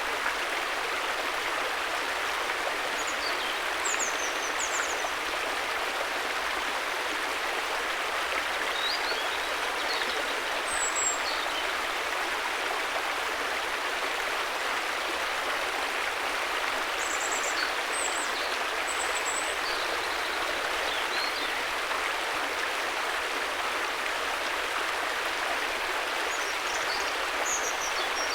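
River water flowing, a steady even rushing. A few faint, short high chirps come and go over it.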